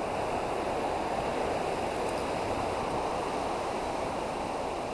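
Ocean surf washing against coastal rocks: a steady rushing wash.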